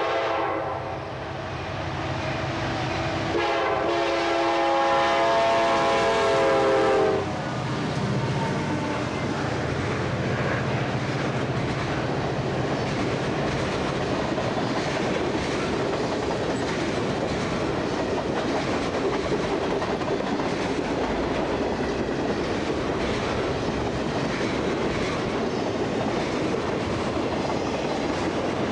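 CSX freight train's locomotive horn sounding, one blast trailing off at the start and a second blast from about three seconds in that cuts off about seven seconds in. Then the train passes with the locomotive's diesel engine and the freight cars' wheels rolling steadily over the rails.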